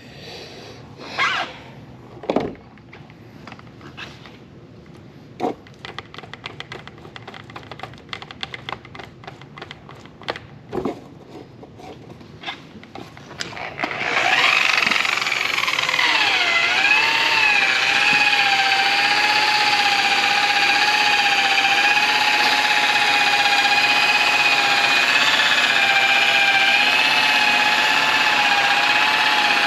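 Scattered knocks and taps, then about halfway through an electric polisher's motor starts and runs with a steady whine that dips in pitch briefly soon after starting, as if loaded against the surface, then holds steady.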